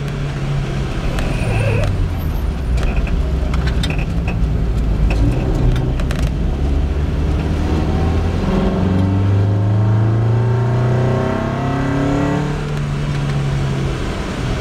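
Lotus Elise's four-cylinder engine heard from inside the cabin, revving up and dropping back through the gears under hard driving. A few sharp clicks in the first half.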